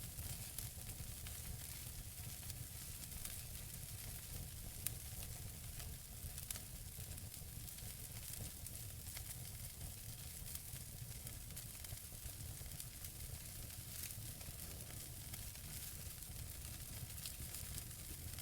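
Wood fire burning in a fireplace: a steady soft hiss with scattered small crackles of burning logs, and a couple of sharper pops about five and six and a half seconds in.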